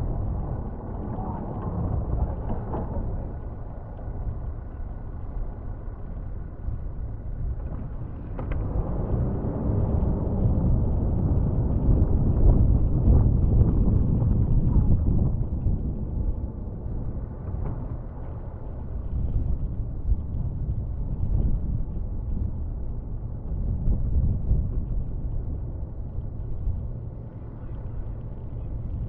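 Snow plow truck's engine running with a low rumble, growing louder for several seconds about a third of the way in.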